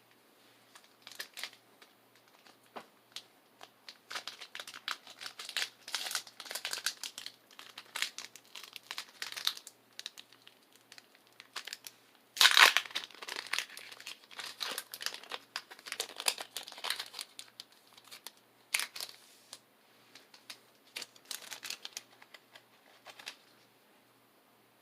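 Foil Pokémon booster pack wrapper being crinkled and torn open: irregular runs of sharp crackles, loudest in a burst about halfway through.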